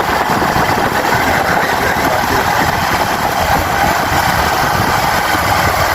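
Motorcycle running steadily while being ridden, its engine mixed with a steady rush of wind noise.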